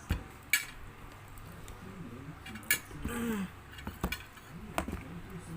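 A few scattered sharp clinks of spoons and dishes at a meal table, with one short vocal sound about three seconds in.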